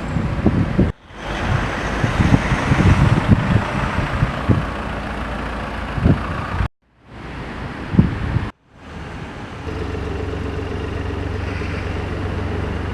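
Supercar and street traffic sound with wind on the microphone, broken by several abrupt edits; from about ten seconds in, a steady low engine hum.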